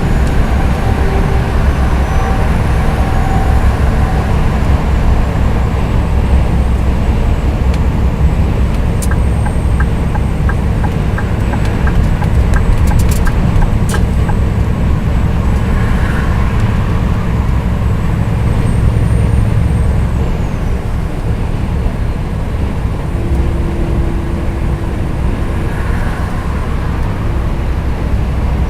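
Scania R420 truck's six-cylinder diesel running steadily under way, a heavy low drone with road noise. Around the middle comes a run of even ticks, about two a second.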